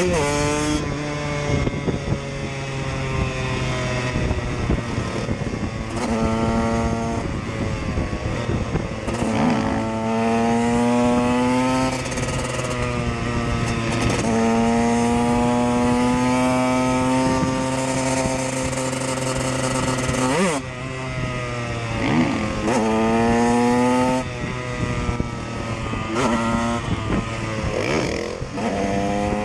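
KTM EXC dirt bike ridden as a supermoto, its engine pulling up through the gears. The pitch climbs slowly, then drops at each shift, many times, over a steadier low engine tone.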